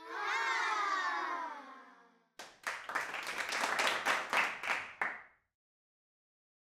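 A wavering pitched sound sliding downward for about two seconds, then about three seconds of applause that stops abruptly.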